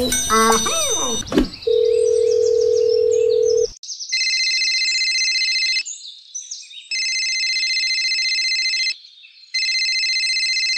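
A telephone dial tone, one steady tone lasting about two seconds, then an electronic telephone ringing in three bursts of about two seconds each, with short gaps between them.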